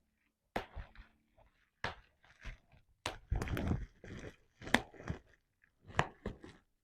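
Bubble wrap being popped by hand: sharp pops coming irregularly, about one or two a second, with plastic crinkling between them.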